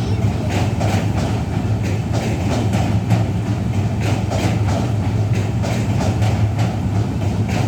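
Train rolling past: a steady low rumble with the regular clatter of wheels over rail joints, two or three knocks a second.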